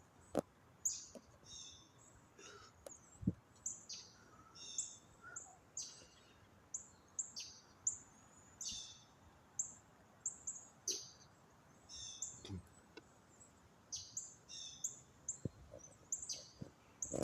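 Small birds chirping: a run of short, high calls, each sweeping down in pitch, coming about once or twice a second over faint background noise.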